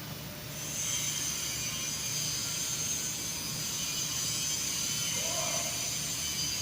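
Steady mechanical running noise: a low hum under a constant high hiss, with a short tone about five seconds in.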